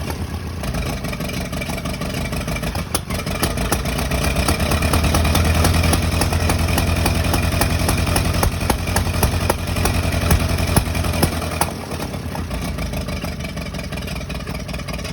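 Engine running with a steady low hum and sharp ticks scattered through it, louder for a few seconds in the middle and settling back near the end; its owner suspects a misfire.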